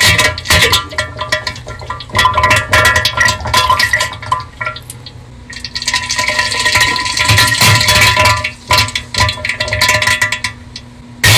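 Meme sound edit of ringing, clinking musical tones, with a rushing water noise of a toilet flushing from about five and a half to nine seconds in.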